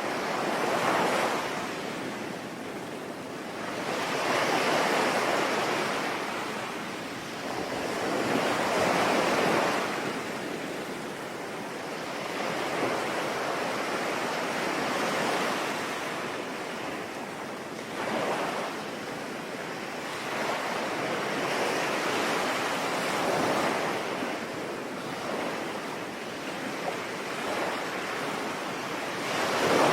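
Sea waves surging and breaking in slow swells every few seconds, over a steady hiss of rain.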